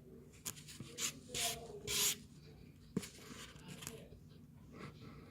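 Microwaved tapioca starch chunks being crunched: four short gritty crunches in quick succession in the first two seconds, a sharp click about three seconds in, then softer scraping.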